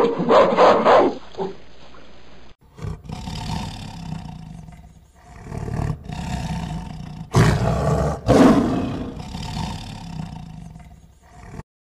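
A tiger growling and roaring in several long calls, the loudest about seven and a half to nine seconds in, stopping abruptly shortly before the end. Before it, in the first second and a half, a chimpanzee's short repeated calls.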